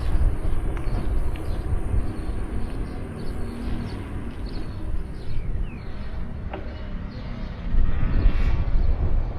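Outdoor ambience from a moving bicycle: wind buffeting the microphone as a constant low rumble, with faint short chirps above it and a brief pitched call near the end.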